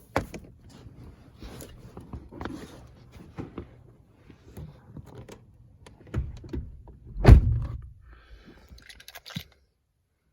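Rustling and light knocks of someone moving about a pickup's cab, with one heavy thud about seven seconds in, typical of a truck door being shut.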